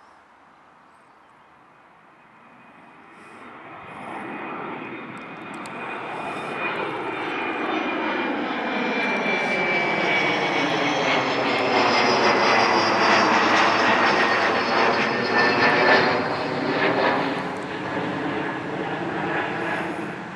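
Embraer ERJ-170 regional jet's twin GE CF34 turbofans at takeoff power. The jet noise grows louder from about three seconds in, is loudest just past the middle, and eases slightly near the end, with a high whine sliding down in pitch.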